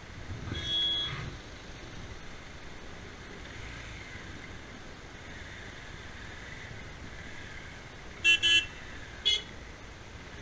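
Vehicle horn honking: one longer honk about half a second in, then two quick loud toots around eight seconds in and a shorter one a second later, over steady road noise.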